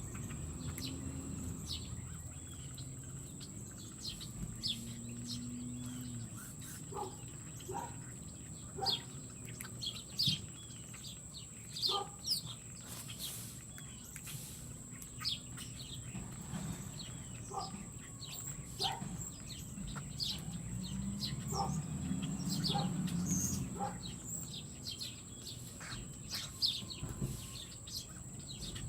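Small birds chirping at a feeder: many short, high chirps and quick down-slurred notes, scattered irregularly throughout. Under them there is a steady high-pitched whine and a low rumble that swells and fades about two-thirds of the way in.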